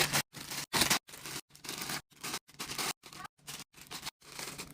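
Pantry items and packaging being handled: quick rustling, scraping and snipping sounds in a run of short clips, each cut off abruptly.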